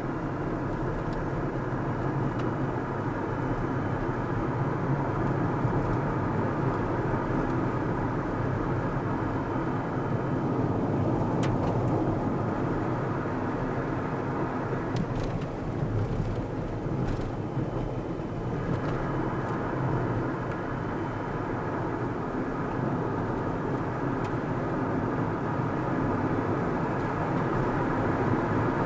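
A car driving along a road: steady engine and tyre noise, with a few faint clicks about halfway through.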